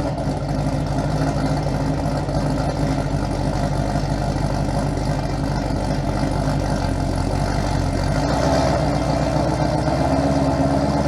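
1967 Ford Mustang's engine idling steadily, a little louder from about eight seconds in.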